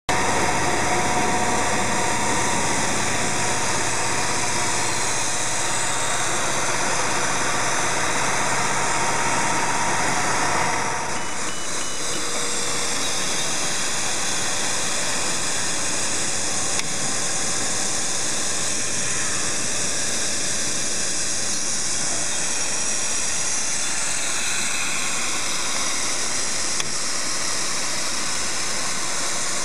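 Steady mechanical running noise of machinery, without a clear rhythm; a low hum drops out about eleven seconds in and the noise carries on slightly quieter.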